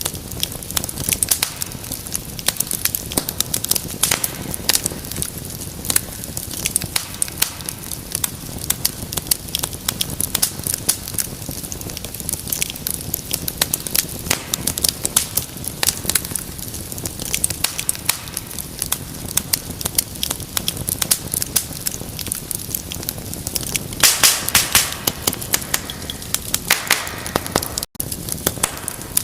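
Wood fire burning in a fireplace, with dense irregular crackles and pops over a low steady rustle of flames. A louder flurry of pops and hissing comes near the end.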